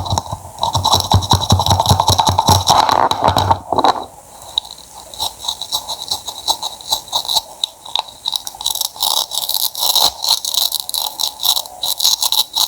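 A knife cutting through crisp produce: dense crunching for the first few seconds, then sparser, sharper cuts and scrapes.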